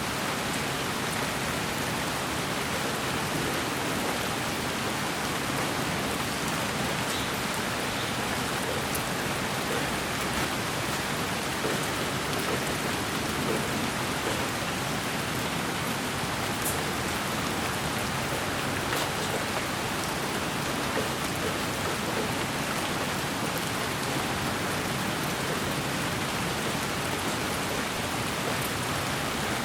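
Steady rain-like white noise for sleep: an even, unbroken hiss with scattered faint drop-like ticks.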